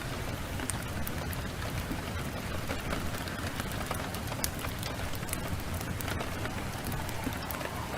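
Steady heavy rain mixed with the crackle of a wood fire: many small sharp pops scattered through the hiss, over a steady low rumble.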